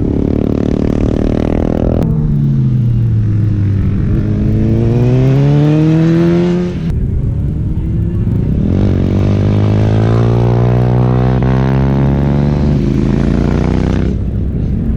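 Superbike engine revving hard on a race track: its pitch dips and then climbs as it accelerates, breaks off sharply about seven seconds in, and climbs again.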